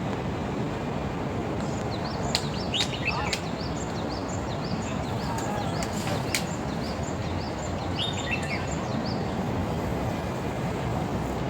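Small birds calling: a run of short, high, repeated notes, about three a second, with a few lower chirps among them. Under them runs a steady low rumble of background noise, and a few sharp clicks cut in.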